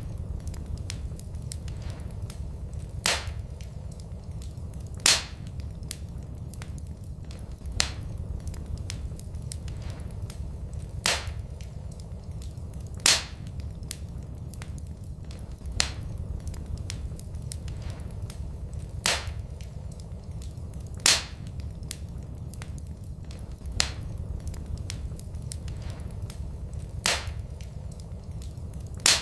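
Fireplace wood fire crackling over a steady low rumble, with a sharp pop every two to three seconds. The pops fall in the same pattern every eight seconds or so: a looped fire recording.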